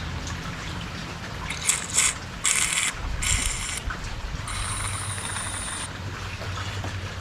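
About four short hissing blasts of pressurised air or spray blown through a carburetor's fuel inlet and float-needle seat, the last and longest with a thin whistle; the passage blows through freely, so it is not clogged.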